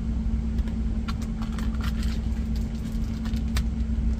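Steady low hum of an idling truck engine, with scattered light clicks and clatter from kitchen items being handled.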